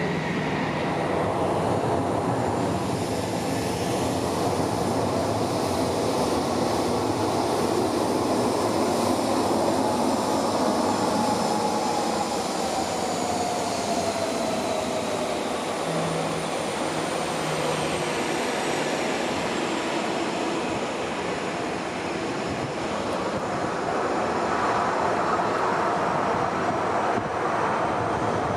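Boeing 737-800's CFM56-7B jet engines running: a steady rushing roar with whining tones that slide slowly down in pitch around the middle.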